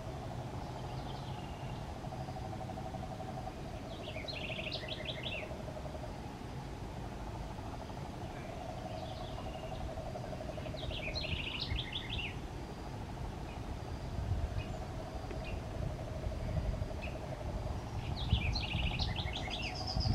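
A bird's short, high chattering phrase, heard three times about seven seconds apart, over a low, pulsing trill that runs in long stretches.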